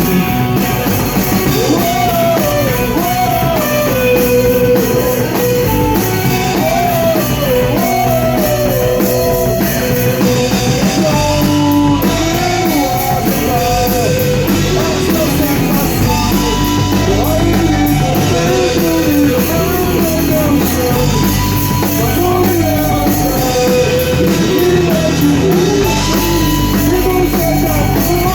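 Rock band playing a song loud and without a break: drum kit, electric guitars and bass, with a melody line that rises and falls in short repeated phrases.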